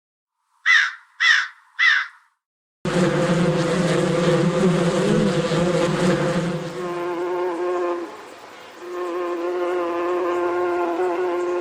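A raven cawing three times in quick succession, then, after a short silence, a swarm of bees buzzing steadily to the end, a dense hum with several held pitches.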